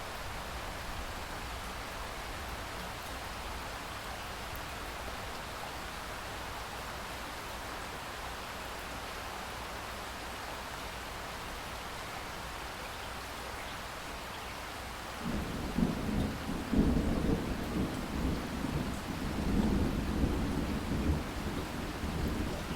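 Steady rain falling, an even hiss. About fifteen seconds in, a long rolling rumble of thunder sets in and goes on, swelling and easing in waves.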